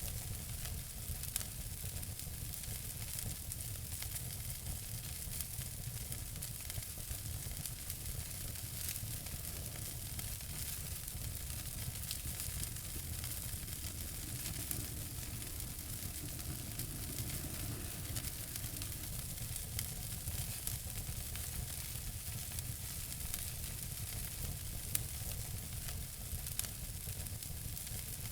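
Wood fire burning in a fireplace: a steady hiss with frequent small crackles and pops, and a couple of sharper pops near the end.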